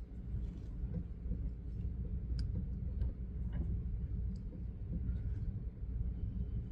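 A few faint metallic clicks as a truck's driveshaft and U-joint are rocked back and forth by hand to check for lash, over a steady low rumble. There is a bit of play in the joint.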